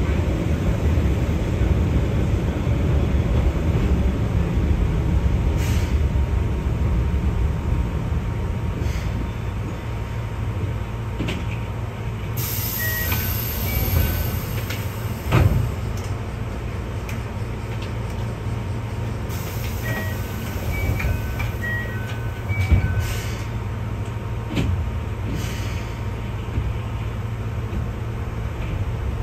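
Keihan 600 series electric train running, heard from inside at the front of the car: a steady rumble of wheels and motors on the rails, with two sharp knocks, one about halfway through and one later. A few short high beeps sound around the middle.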